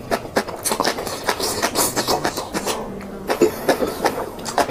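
Close-miked chewing of fried, sauced vegetables from a skewer: a quick, irregular run of wet crunches and mouth clicks.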